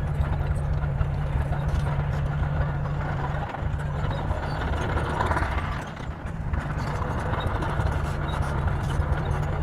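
Heavy bulldozer diesel engine running steadily, a dense low rumble with a rapid rattle through it.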